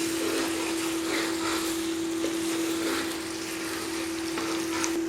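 Onions, potatoes and ginger-garlic paste sautéing in hot oil, a steady sizzle with faint crackles, over a constant low hum.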